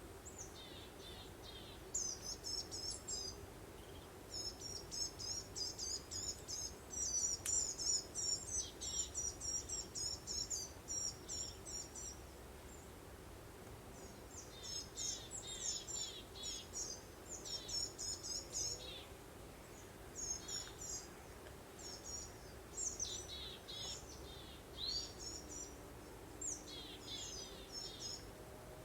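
Songbirds singing in quick, high, twittering phrases, busiest in two long runs and then scattered, over a steady low background hiss.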